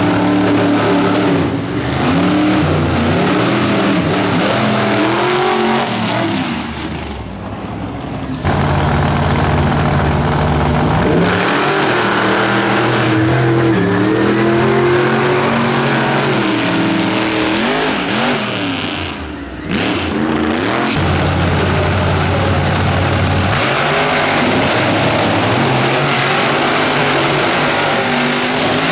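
Monster truck engine revving hard, its pitch repeatedly climbing and falling, held steady at high revs for a few seconds at a time, with two brief drops when the throttle is let off.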